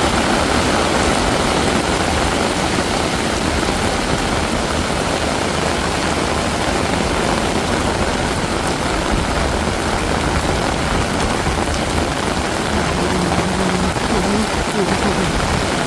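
Heavy rain pouring steadily on a city street: a dense, even hiss of rain on the ground and surfaces, with a low rumble underneath. A brief voice is heard near the end.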